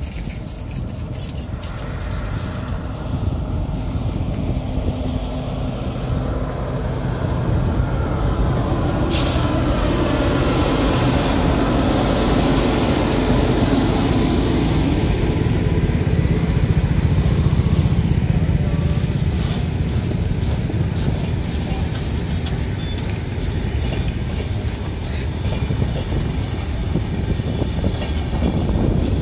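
Indian Railways passenger train rumbling past on a small rail bridge, the noise building over the first several seconds as the locomotive and coaches come across. Motorcycles run through the underpass beneath it.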